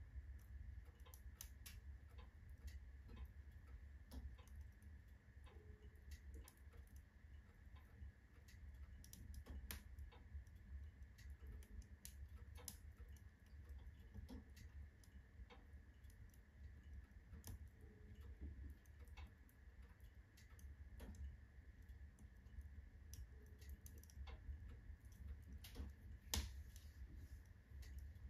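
Faint, irregular ticks and cracks from a heating wood-burning stove: its metal body expanding with the heat. They come at uneven intervals over a low steady rumble, with one sharper crack near the end.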